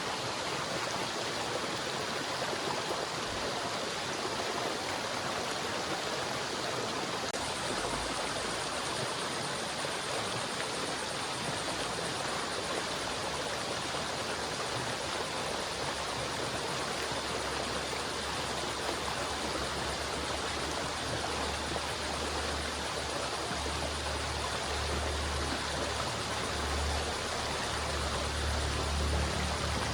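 River water flowing steadily, an even rushing sound. A low rumble comes in about halfway through and grows louder toward the end.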